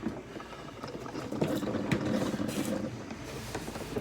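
Dishes being washed by hand at a sink: running water with a few clinks of dishes and cups.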